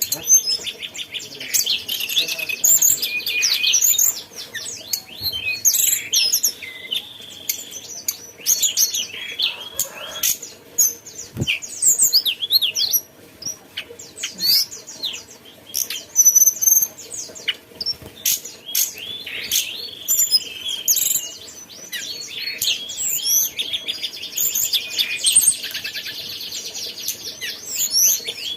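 A tledekan gunung songbird singing a loud, varied song of quick chirps and whistled phrases. A fast trill comes in the first few seconds and again near the end.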